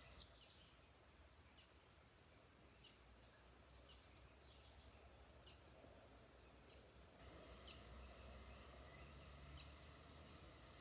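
Faint tropical-forest ambience with scattered short, high bird chirps, one louder about two seconds in. A steady high hiss comes in about seven seconds in.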